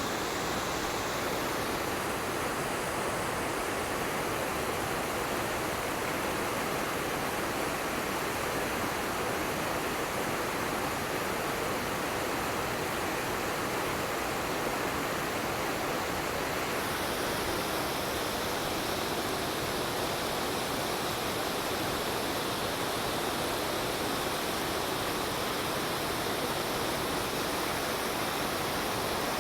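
Mountain creek rushing over rocks: a steady, even roar of fast-flowing water with no breaks.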